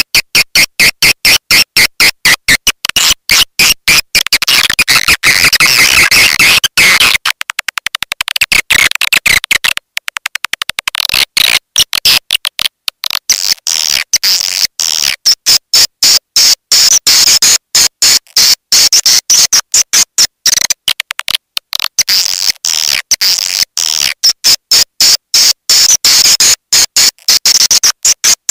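Recorded swiftlet lure call of the 'walet petir' type: a dense run of loud, rapid chirps and clicks, many a second, high-pitched and without a break.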